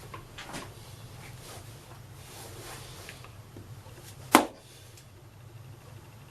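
A steady low hum with a few faint ticks, and one sharp knock about four seconds in.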